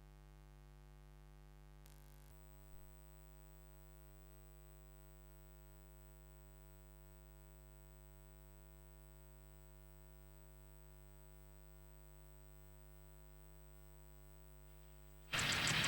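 Faint steady electrical hum with many evenly spaced overtones between tracks of a noise-music cassette, joined by a thin high whine a little over two seconds in. Near the end, loud harsh noise music cuts in abruptly.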